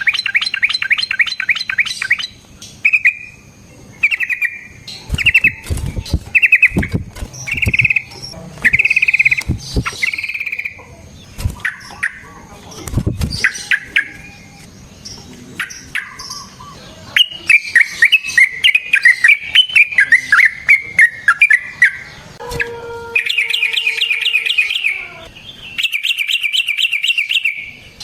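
Yellow-vented bulbul (trucukan) singing: fast trilled rattles and runs of short bubbly phrases, repeated over and over. A few low thumps sound in the first half.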